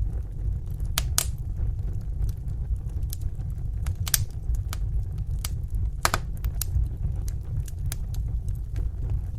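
Wood fire burning in a fireplace: a steady low rumble with sharp crackles and pops at irregular intervals, a few of them louder than the rest.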